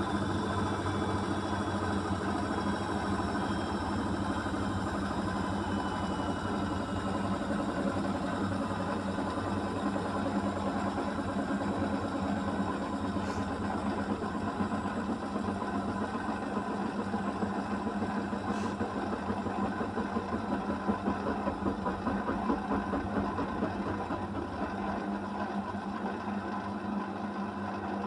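Beko WMY81283LMB2 washing machine's drum winding down from a 1200 rpm spin. The motor whine falls in pitch over the first several seconds over a steady hum and low rumble. The machine is slowing the spin because the load is unbalanced.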